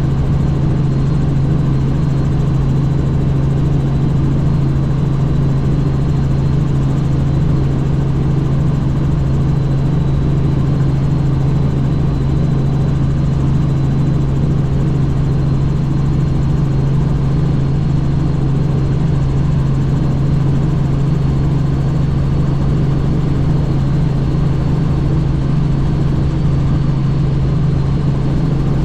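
Helicopter in flight: the rotor and turbine make a loud, steady drone, with a thin high whine held on top.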